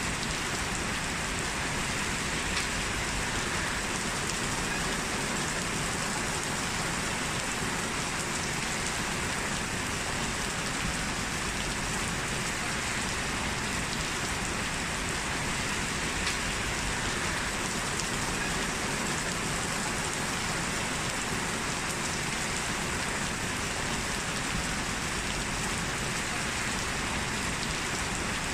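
Steady rain falling, an even patter of drops on surfaces with no let-up or thunder.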